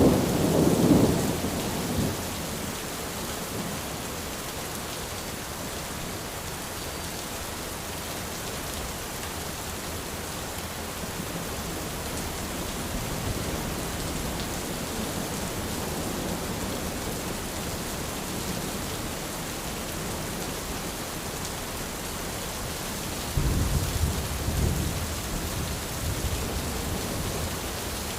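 Steady rain falling on an umbrella, with low rumbles of thunder in the first two seconds and again about 23 seconds in.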